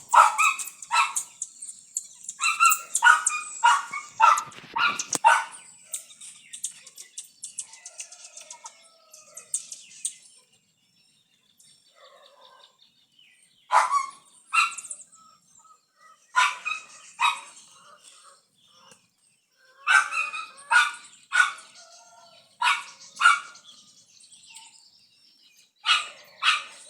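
A dog barking in bouts of several quick barks with pauses of a few seconds between them. Birds chirp high and faintly behind it, mostly in the first ten seconds.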